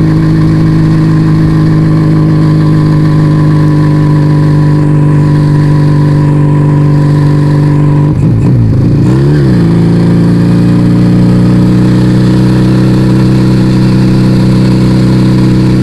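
Yamaha Vega ZR motorcycle running through an aftermarket Arrow exhaust, cruising at steady revs. The revs briefly drop and pick up again about eight seconds in.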